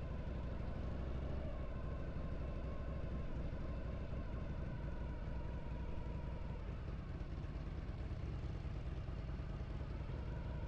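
Harley-Davidson air-cooled V-twin motorcycle engine running steadily under way at an even pace.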